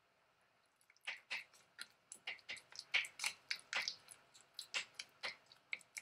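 A quick, irregular run of small crackling clicks from handling food during egg salad sandwich preparation, starting about a second in.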